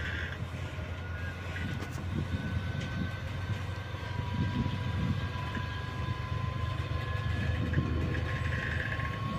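A train running through the station with a steady low rumble and a faint whine that rises slowly in pitch.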